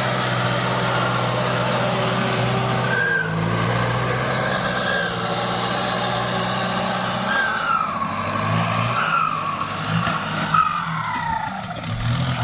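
Turbocharged Kubota tractor diesel engine running steadily under load while ploughing. A high whistle from the turbo rises and glides down several times over the engine note.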